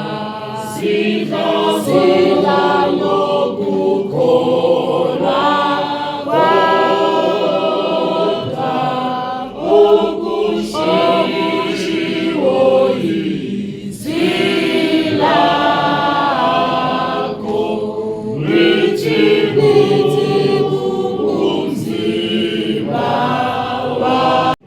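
A choir singing, many voices together in long sustained notes.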